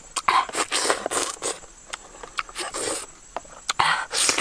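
Biting and chewing raw honeycomb close to the microphone: a quick run of short, wet, scraping mouth-and-wax noises.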